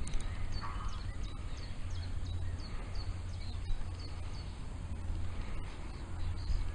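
A bird calling in a run of short, high chirps, each dropping slightly in pitch, about two to three a second, over a low steady rumble of wind on the microphone.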